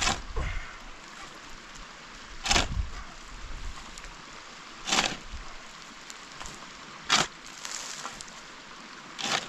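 Five sharp strikes at an even pace, about two and a half seconds apart, of the kind made by a tool chopping or striking wood.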